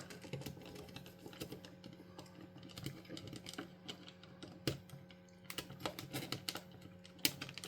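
Faint, irregular clicks and taps of small plastic parts being handled as the circuit board is fitted back into a Sega Mega Drive controller's plastic shell, with a few sharper clicks.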